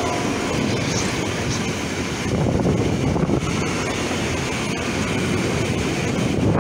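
Freight train of pressurised gas and hydrocarbon tank wagons rolling past at close range: a steady low rumble of wheels on rail, with a few faint clicks.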